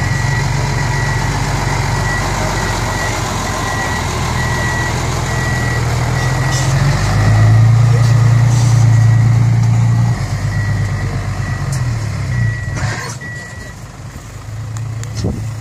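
Six-wheel dump truck's diesel engine running, with its reversing alarm beeping steadily. The engine gets louder for a few seconds midway, and the beeping stops near the end.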